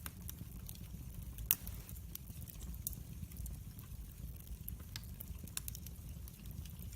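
Wood fire burning in a fireplace: a steady low rumble of flames with scattered crackles and one louder pop about one and a half seconds in.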